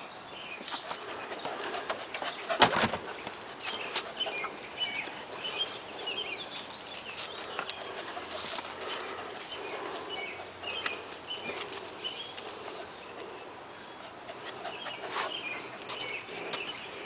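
Small birds chirping repeatedly, with scattered knocks and one louder thump about two and a half seconds in.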